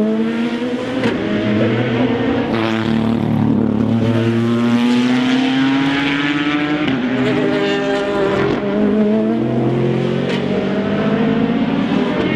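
Race car engines accelerating hard, their pitch climbing through each gear and dropping at every upshift, with more than one car heard at once.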